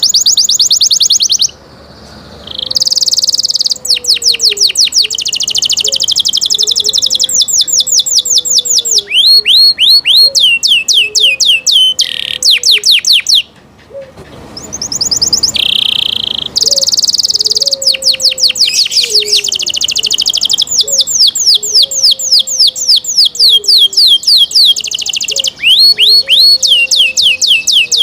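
Canary singing: fast runs of repeated chirps and trills, broken by two short pauses.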